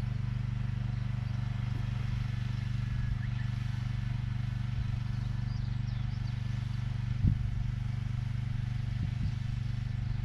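Small engine of a vegetable transplanter running steadily as it plants corn seedlings, with a sharp knock about seven seconds in and a few lighter knocks shortly after.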